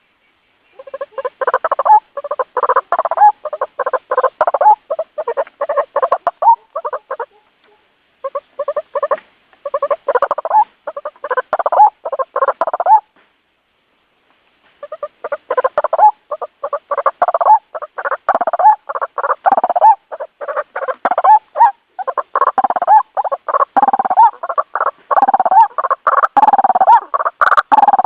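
White-breasted waterhen calling: long runs of fast, repeated notes, broken by short pauses about a second in, around seven to eight seconds in, and around thirteen to fourteen seconds in.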